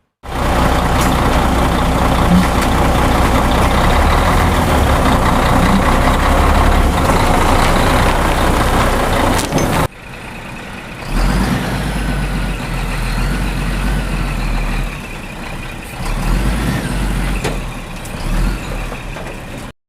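Heavy truck engine running loudly. It breaks off abruptly about ten seconds in and is followed by a somewhat quieter stretch of truck engine sound that rises and falls.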